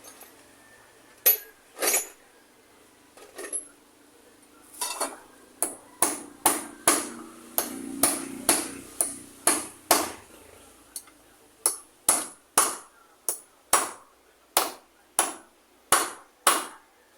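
Hammer blows during repair work: a few spaced strikes, then from about five seconds in a steady run of about two sharp strikes a second.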